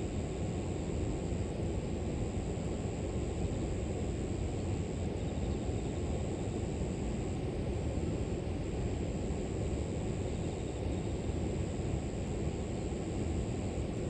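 Steady rush of a flowing river, deep and even, with a continuous high-pitched trill of grass insects over it.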